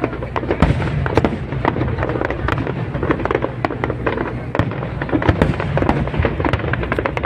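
A fireworks display going off in a dense barrage: many sharp cracks and pops a second over a steady low rumble of bursting shells.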